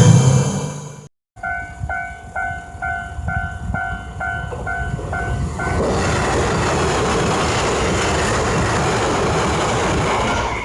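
Japanese level-crossing warning bell ringing, a repeating electronic ding about twice a second. About six seconds in, a train passes close by and its running noise drowns out the bell.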